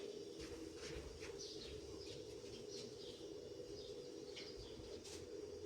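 Birds chirping in short, repeated calls scattered throughout, over a faint steady low hum.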